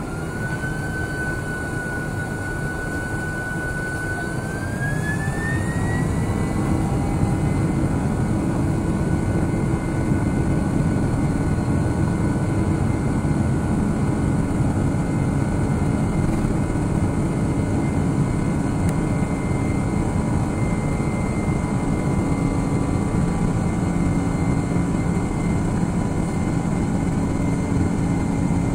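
Boeing 767-300ER's twin jet engines spooling up to takeoff thrust, heard from inside the cabin. A whine climbs in pitch over the first six seconds as the low rumble grows louder, then both hold steady and loud.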